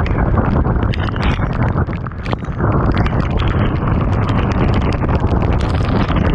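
Heavy rain pouring down, with a steady rush and many sharp taps of drops striking nearby surfaces, and wind buffeting the microphone.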